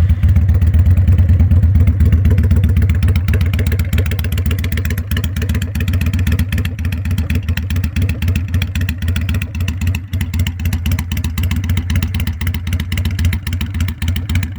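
A 2003 Kawasaki Vulcan 800's V-twin engine, just started, running at idle with a fast, even exhaust beat. It is a little louder for the first few seconds, then settles.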